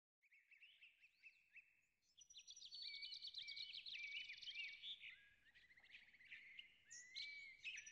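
Songbirds chirping and singing, several overlapping calls with quick rising and falling whistles. It starts just after a moment of silence and grows busier about two seconds in.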